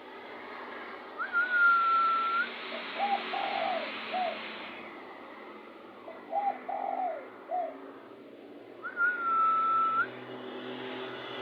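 Spotted dove cooing, two phrases of three or four hooting notes each, the excited calling used as a lure for wild doves. Before each phrase comes a higher, drawn-out whistled note, over a steady hiss.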